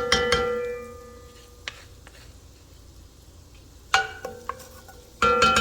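Metal cookware clanking: three sharp strikes of metal on a metal pot or pan, at the start, near four seconds and near the end, each leaving a ringing tone that fades over about a second.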